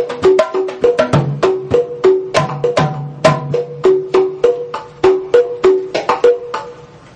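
Volcano Percussion batá drums playing a rhythm: sharp ringing open tones that alternate between two pitches over deeper low strokes, stopping about six and a half seconds in.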